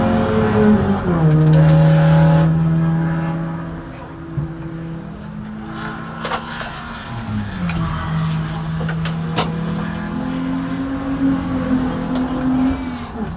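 Race car engines running, their pitch dropping about a second in, then holding steady and rising again near the end, with a few sharp knocks in the middle.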